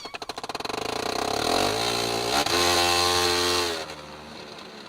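A vehicle engine revving up: its firing pulses speed up into a rising note over the first two seconds, hold a steady high pitch, then drop away just under four seconds in.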